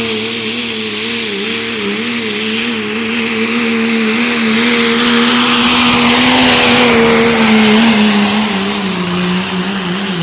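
Pulling truck's engine held at high revs under heavy load during a pull, its pitch wavering as the load changes. It gets loudest a little past the middle, and the engine speed drops near the end.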